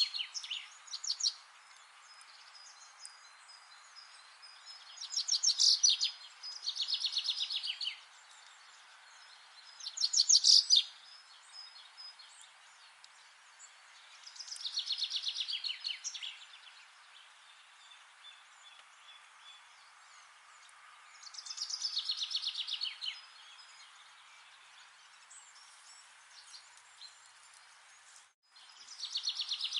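A songbird singing short, rapid trilled phrases, one every few seconds, over a steady faint background hiss.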